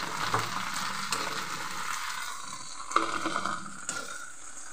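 Okra sizzling in hot oil in a metal kadhai while a slotted spoon scrapes through it and lifts it out, with a few clicks and one sharp metal knock about three seconds in.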